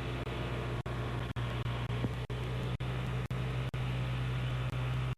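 A steady low hum with a hiss above it, broken every half second or so by brief dropouts in the audio.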